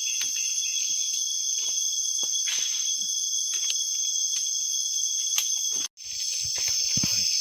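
Steady insect chorus, several shrill high tones held together, with scattered small clicks and ticks over it. The sound cuts out completely for a moment almost six seconds in, then returns.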